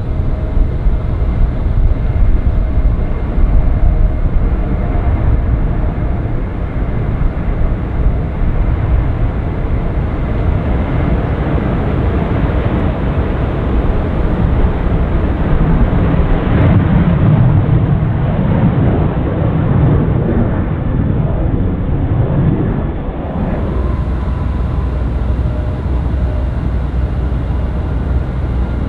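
Jet airliner engine noise, a loud steady rumble that swells about halfway through and eases a few seconds later.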